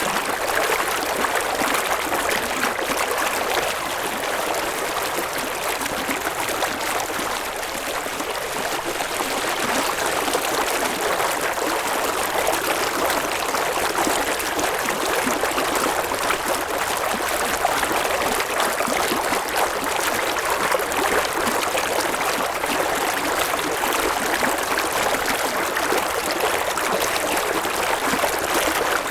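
River water flowing steadily over rocks, a continuous rushing and babbling with fine splashing detail.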